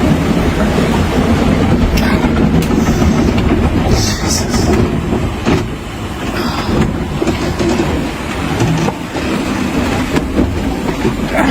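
Steady rumble of water rushing along the hull of a small Globe 580 sailboat rolling in a rough, confused sea, with scattered knocks and rattles of gear aboard and a brief hiss about four seconds in.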